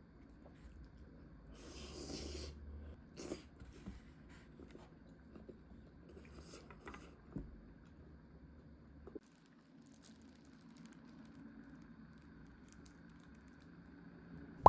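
Quiet eating and food-handling sounds: faint chewing, soft rustles and a few small clicks, which drop away abruptly about nine seconds in, leaving a faint hiss.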